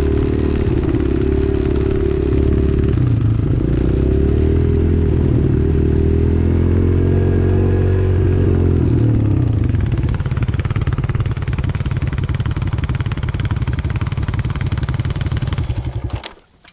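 Dirt bike engine running while being ridden, the revs rising and falling for the first nine seconds or so, then holding steadier. The sound cuts off abruptly near the end.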